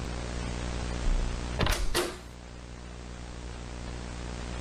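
A steady electrical hum from the horror short's soundtrack. About one and a half seconds in, a brief loud noisy sound cuts across it and fades within half a second.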